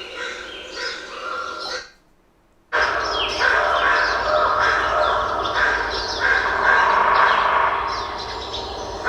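Film soundtrack ambience of many birds calling in short chirps and cries. It cuts to near silence for under a second about two seconds in, then comes back louder and denser.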